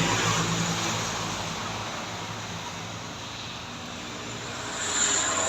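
A vehicle engine running, its low hum fading over the first couple of seconds, with a short high hiss about five seconds in.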